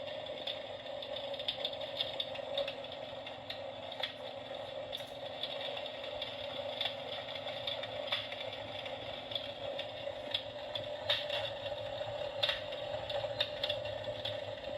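RealFlame Fobos electric fireplace insert running: a steady motor hum with irregular clicks and crackles over it.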